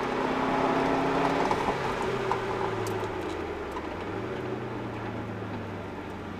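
Subaru Impreza WRX's turbocharged flat-four engine heard from inside the cabin, its pitch falling as the driver comes off the throttle, with a short rise about four seconds in as a gear is changed, then running at lower revs and getting quieter.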